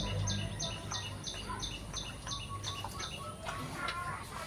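A high chirp repeated evenly about three times a second, stopping about three and a half seconds in, with chickens clucking near the end.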